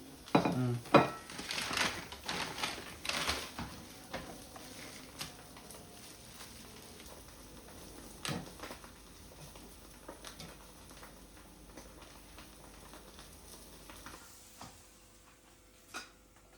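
Kitchen sounds: clattering and scraping of utensils for the first few seconds, then a faint steady hiss with the odd click, typical of food frying in a pan.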